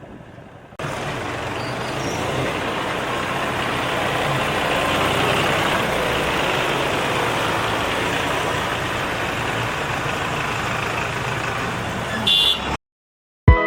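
Tractor engine running, heard under a loud, steady rushing noise; it starts about a second in and cuts off suddenly near the end.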